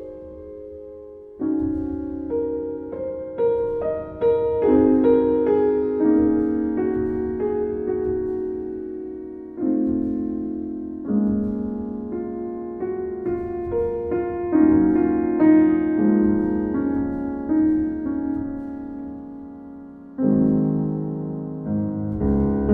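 Piano music: melody notes and chords struck and left to ring and fade, in slow phrases.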